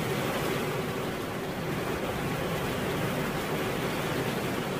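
Steady rain falling, an even continuous hiss with no breaks or changes.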